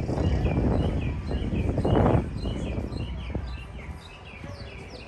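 Birds chirping, many short repeated chirps, over a low rushing background noise that is loudest in the first two seconds and then dies down.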